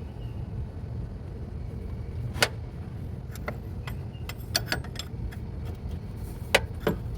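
Scattered sharp metal clinks of a combination wrench working a transmission mount nut and bolt, about six in all, the sharpest a third of the way in and near the end, over a steady low rumble.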